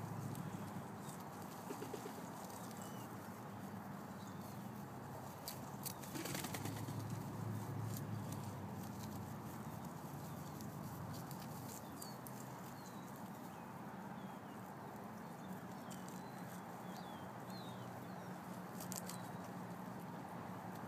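Birds crowding in to be fed crackers: wing flaps and a few sharp clicks, with short high chirps scattered through, more of them in the second half, over a steady background hum.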